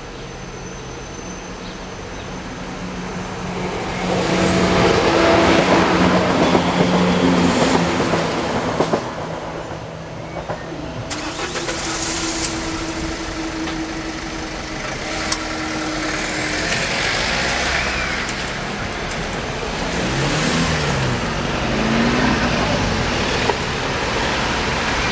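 A train passes over the level crossing, loudest from about four to nine seconds in. A steady hum follows as the crossing barriers rise, and near the end cars accelerate across the crossing.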